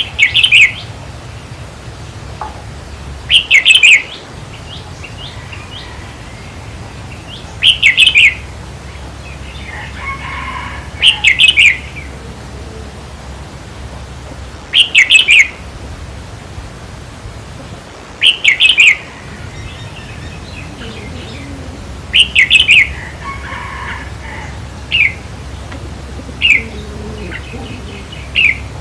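Red-whiskered bulbul singing: short, loud, warbled phrases repeated about every three to four seconds, with briefer single notes near the end, over a faint steady low hum.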